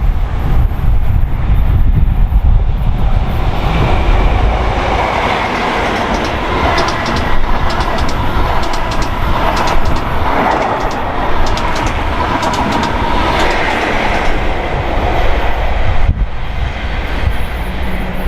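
A train passing along the track, wheels clicking rapidly over the rail joints, building up about four seconds in and cutting off sharply near the end. Wind buffets the microphone throughout.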